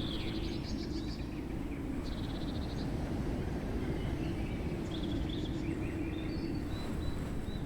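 Steady rushing of a waterfall, with short high chirps and fast trills from small animals calling over it, a few times.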